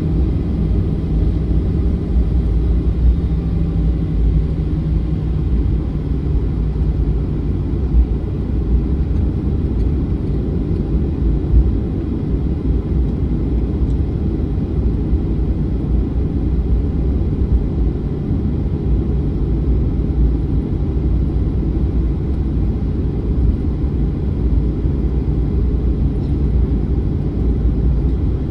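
Boeing 737-900 airliner with its CFM56-7B turbofans running, heard as a steady low rumble. A faint steady hum fades out about six seconds in.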